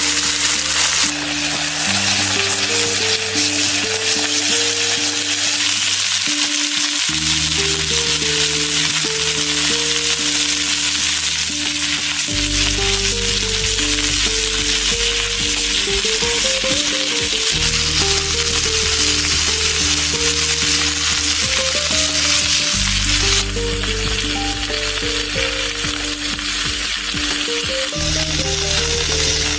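Food frying in a pan, a steady sizzling hiss, over background music of slow sustained chords.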